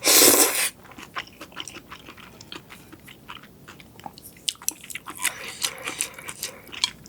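Close-miked eating: a loud crunchy bite right at the start, then steady chewing with many small crackles and clicks.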